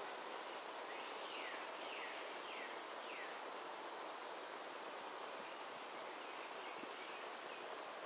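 A songbird whistles four quick downslurred notes in a row, about half a second apart, a second or so in, then a few fainter notes near the end. Thin high-pitched tones come and go over a steady outdoor hiss.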